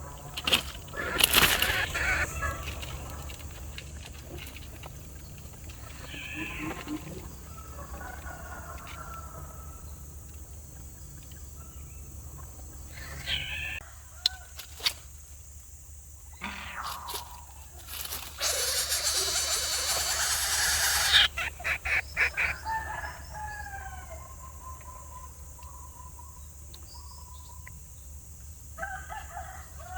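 Chickens calling and squawking in scattered bursts, with a loud, harsh, rasping stretch of about three seconds a little past the middle.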